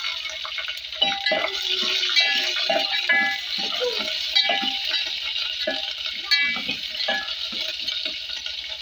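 Onions and ginger-garlic paste frying in hot oil in an aluminium pot, stirred with a metal slotted spoon: a steady sizzle with many quick scrapes and clinks of the spoon against the pot.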